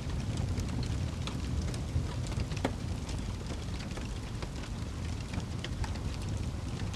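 Wood campfire crackling, with scattered sharp pops and one louder pop a little past the middle, over a steady low rumble.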